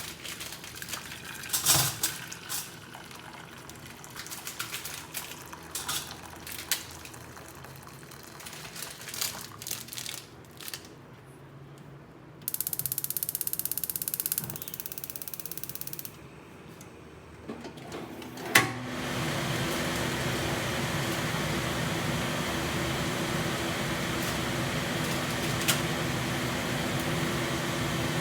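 Clicks and knocks of kitchen handling, then about two seconds of water rushing out a little before halfway. A click comes near two-thirds of the way in, and then a kitchen exhaust fan runs steadily and noisily with a constant drone through the rest.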